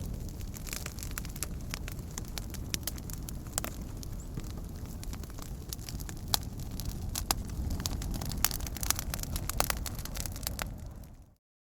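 Wood campfire burning: a steady low rumble with frequent sharp crackles and pops from the burning wood. Near the end the sound fades quickly and cuts to silence for a moment.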